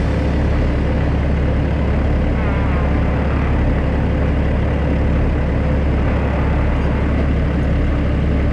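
Heavy diesel engine running steadily with a constant deep hum.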